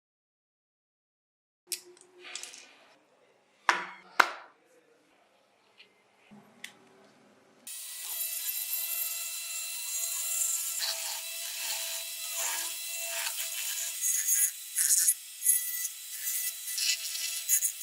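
A few light clicks and short scrapes of small parts being handled, then, about eight seconds in, steady rough scraping or sanding on a die-cast model car part, over a faint steady hum.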